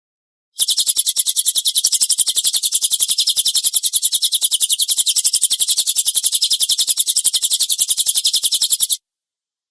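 Recorded cililin bird call used as training material: a harsh, rapid-fire 'tembakan kasar' burst of high, even notes about ten a second, starting about half a second in and cutting off abruptly near the end.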